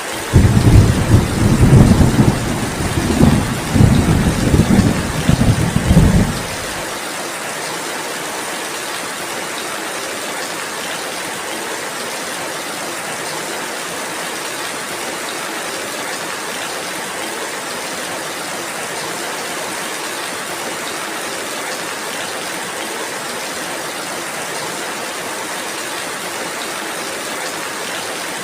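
Steady rainfall with a loud, low thunder rumble that starts suddenly, swells several times over about six seconds, then cuts off abruptly, leaving only the rain.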